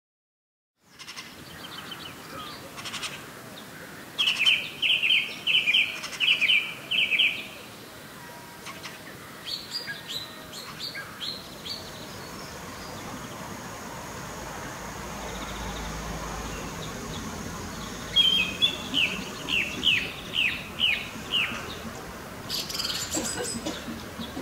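Small birds chirping in several runs of quick, high notes, about four a second, over steady outdoor background noise that starts about a second in.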